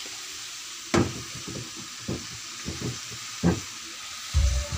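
Sago grubs frying in soy sauce in a wok: a steady sizzle, with a metal spatula scraping and knocking against the pan as they are stirred. There is a sharp clank about a second in and another near the end.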